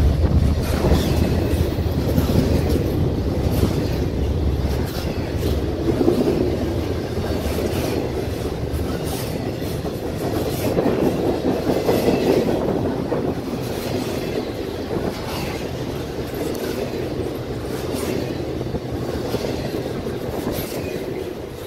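Double-stack intermodal freight train rolling past: steady rumble of the well cars with irregular clacks of wheels over the rail joints, slowly getting quieter.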